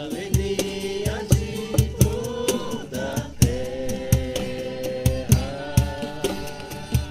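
Live worship-band music with a steady drum beat about twice a second under sustained melody lines, played between sung verses.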